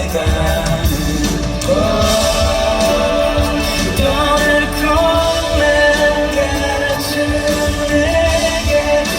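Live band performance of a rock-pop song: a male vocalist sings long held notes over drums, bass and guitar.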